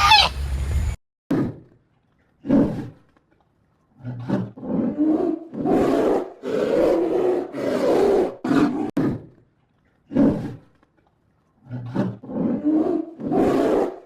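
Big cat roaring: a run of short, deep roars repeated in quick succession for several seconds, then after a pause a second run near the end.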